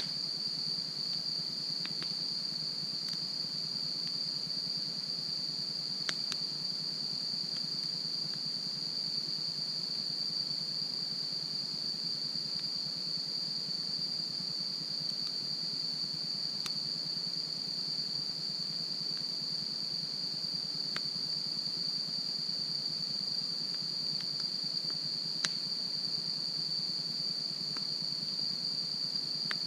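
Wood campfire crackling, with a few sharp pops spread far apart, over a steady high-pitched insect trill.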